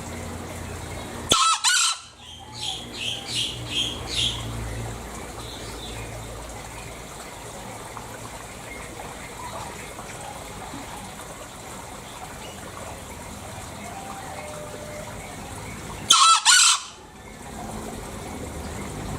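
Green junglefowl (Gallus varius) crowing: two short, harsh crows, about a second in and again near the end. A run of five quick high notes follows the first crow.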